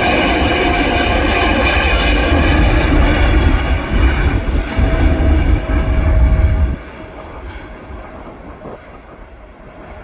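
FedEx Boeing 777 freighter's jet engines at takeoff power departing: a loud whine made of several steady tones over a deep rumble. The rumble cuts off suddenly about seven seconds in, and the whine fades away as the jet leaves.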